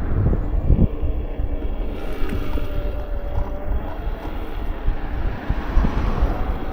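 Wind buffeting the microphone during a ride on an electric unicycle, a heavy gusty rumble with a faint steady whine underneath.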